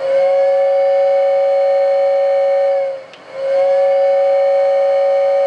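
Lionel air whistle on an O gauge toy train, blowing two long blasts, each a steady tone that sags in pitch as it dies away, with a short gap after about three seconds.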